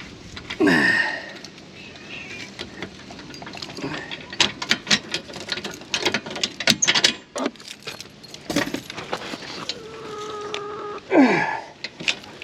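Trailer hitch and its chains being unhooked: a run of metal clicks and clanks, with a short falling squeal about a second in and another near the end.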